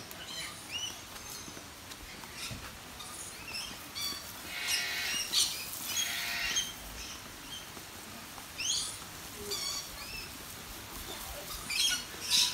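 Birds in an aviary chirping and squeaking, short high calls scattered throughout, with a couple of longer, harsher calls about halfway through.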